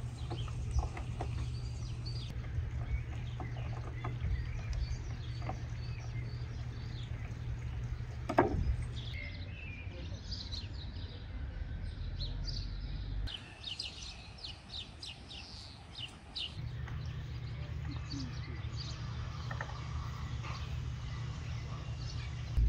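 Small birds chirping and tweeting over a steady low rumble of outdoor background noise. There is a brief louder sound about eight seconds in, and a denser run of chirps a little past the middle.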